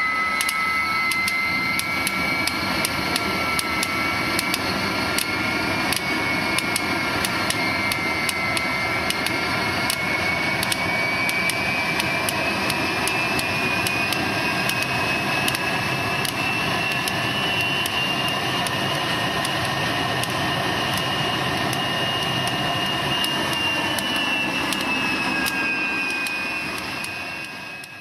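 Jet engine running: a steady rushing roar under a high whine that climbs slowly in pitch and eases back a little near the end, with a stream of sharp clicks throughout. The sound fades out at the very end.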